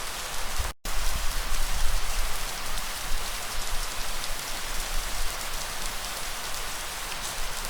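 Steady rain falling, an even hiss of drops with a low rumble of breeze underneath. The sound cuts out completely for an instant just under a second in, then resumes.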